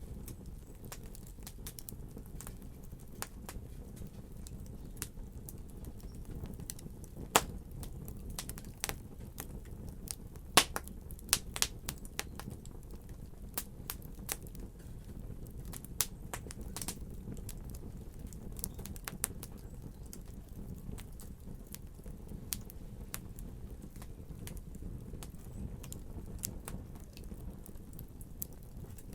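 Fire crackling: irregular sharp pops and snaps over a steady low rumble of burning, the loudest pops coming about seven and ten seconds in.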